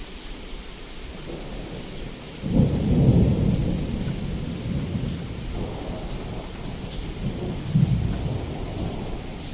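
Heavy rain falling steadily, with a thunderclap breaking about two and a half seconds in and rolling away in a long, low rumble that swells again briefly near the end.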